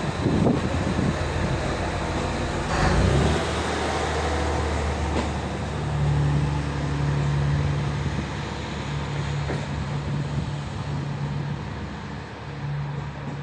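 HB-E210 series diesel-hybrid railcar running at the platform, a low steady engine hum whose pitch shifts a few seconds in, with a brief louder rush of noise about three seconds in.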